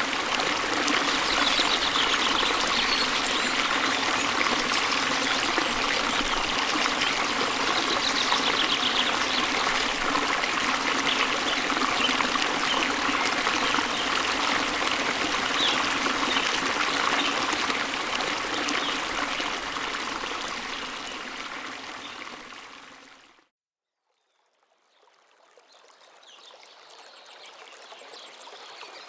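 Steady rush of a flowing stream, with a few bird trills over it near the start. The water fades out about three quarters of the way through, and after a moment of silence a quieter outdoor recording fades in.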